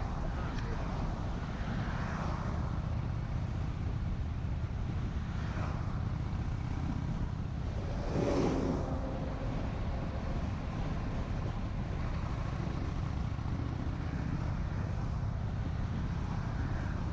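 Honda Shadow 750's V-twin engine running steadily under way, with wind rushing over the microphone and the hiss of rain and wet-road spray. About eight seconds in a brief louder whoosh rises and fades.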